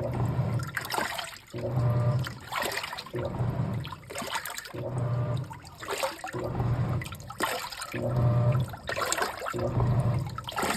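Top-loading washing machine agitating a full tub of water: the motor hums and the water sloshes in a surge about once a second as the drum's pulsator turns back and forth, running a tub-cleaning wash with washer cleaner.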